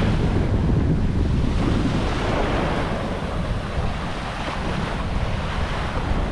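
Waves washing onto a sandy beach, with wind buffeting the microphone; the rush is strongest in the first couple of seconds, then eases to a steady wash.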